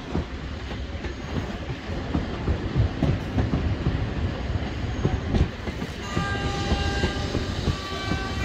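A train running past at close range, its wheels knocking and rumbling on the track. From about six seconds in, several high steady tones ring out over the rumble.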